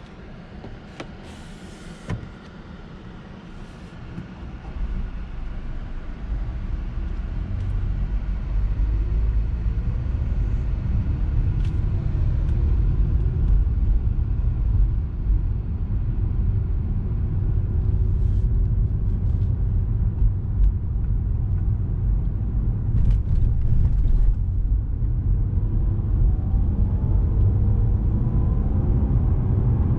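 A 2017 Lexus RX 200t driving in city traffic, with its 2.0-litre turbocharged four-cylinder (8AR-FTS) running. Quiet for the first few seconds, then a low rumble of engine and road noise builds from about five seconds in as the car picks up speed, with the engine note rising and falling.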